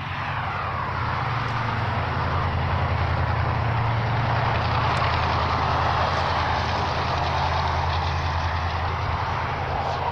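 A motor vehicle engine running steadily with a low hum, its noise swelling louder after the first couple of seconds and easing slightly near the end.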